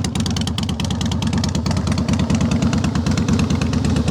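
A 2004 Harley-Davidson Softail Standard's fuel-injected 88-inch V-twin idling smoothly through staggered full-length Samson exhaust pipes, a steady even pulse with no abnormal engine noises.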